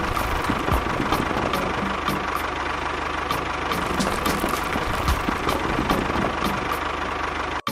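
A small machine's motor running steadily with a dense clicking rattle, cutting off abruptly just before the end.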